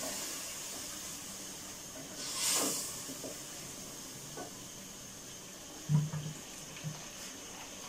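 Masala frying in a pot with a little water just stirred in: a steady sizzle that swells briefly a couple of seconds in. A spoon knocks against the pot a few times about six seconds in.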